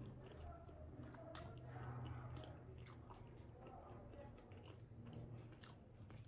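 A person chewing soft steamed momo dumplings up close: quiet, wet mouth sounds, with a few sharp clicks and a faint steady low hum underneath.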